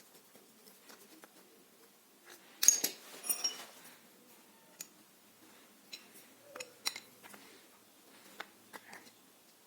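Small metal parts clinking and tapping together: a bunch of ringing clinks about three seconds in, then a few scattered light clicks.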